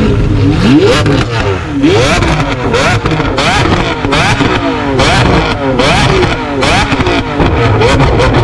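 Sports car engines revved over and over in quick throttle blips, the pitch shooting up and dropping back roughly once a second.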